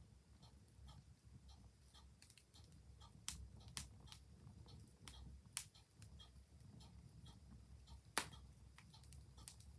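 Wood fire crackling, with irregular sharp pops (the loudest about eight seconds in) over a low rumble. A clock ticks faintly underneath.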